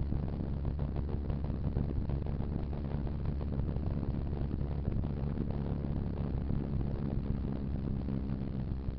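Motorcycle engine running steadily under way, with wind and road noise over the microphone.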